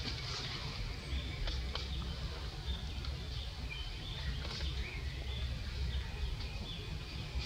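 Forest ambience: many short, high chirps of small birds scattered through, over a steady low rumble.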